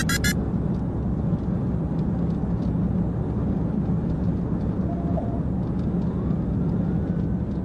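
Steady rumble of a patrol car's engine and road noise while driving at speed.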